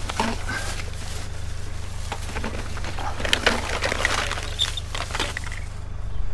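Irregular clicks, knocks and rattles of an old desktop PC case and its parts being handled.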